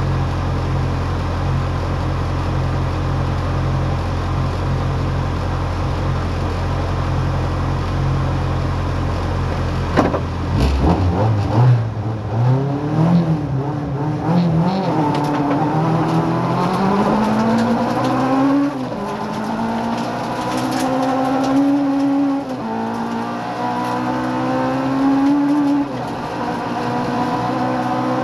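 Rally car engine heard from inside the cabin, running steadily at the start line, then launching about ten seconds in and accelerating hard, the revs climbing and dropping back at three upshifts.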